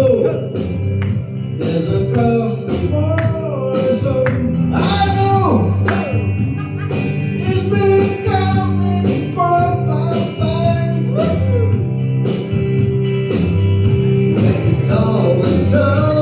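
Live band music: guitar over bass and drums with a steady beat.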